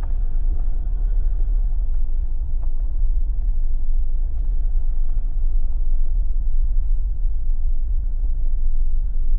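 Steady low rumble of road and engine noise inside a Jeep's cabin while driving.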